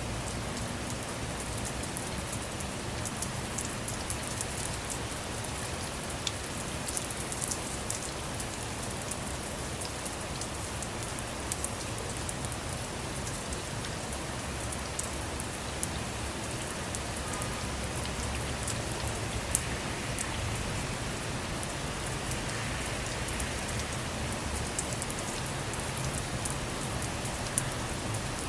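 Steady rain falling on a car or motorhome, a constant hiss with many small sharp drop taps and a few louder single drop hits.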